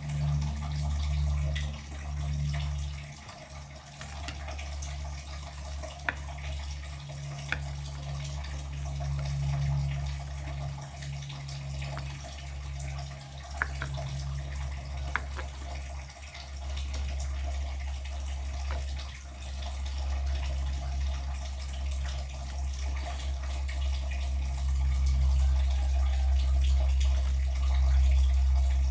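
Water running, likely a tap into a sink, steady and getting louder toward the end, with a few light clicks.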